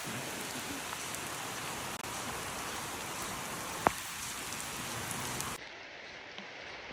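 Steady rain falling, an even hiss, with one sharp click about four seconds in; the rain is softer for the last second or so.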